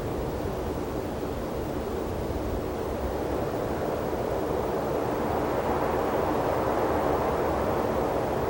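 Steady low rushing of open-air ambience, swelling gradually over the middle few seconds and easing slightly near the end.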